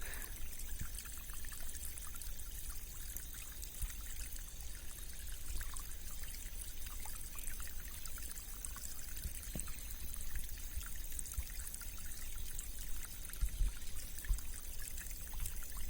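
Small rain-swollen stream flowing and trickling steadily, with bubbly, tinkling ripples.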